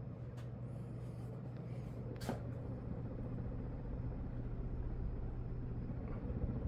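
Early-2000s Emerson Hardwood ceiling fan with 52-inch blades running on high: a steady motor hum with the rush of air, growing slightly louder. A single sharp click comes about two seconds in.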